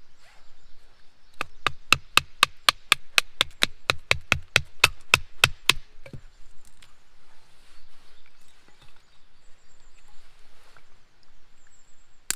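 A fast, even run of about twenty sharp knocks, some four or five a second, lasting around four seconds, then stopping. Quieter scattered rustling follows.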